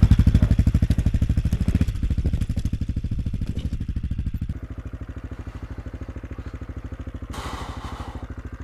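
AJP PR7's single-cylinder engine running at low revs, each firing pulse distinct, easing off in level about halfway through. A short hiss comes about three-quarters of the way in.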